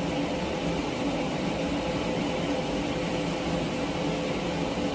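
Steady mechanical hum, like a running fan, with a few faint held tones and no sudden sounds.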